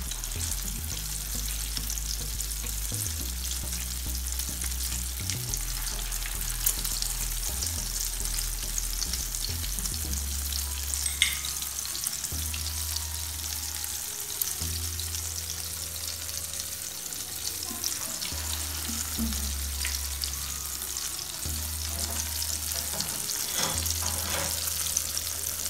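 Chicken shami kababs dipped in beaten egg shallow-frying in hot oil in a pan over a low-to-medium gas flame: a steady crackling sizzle, with a low hum underneath.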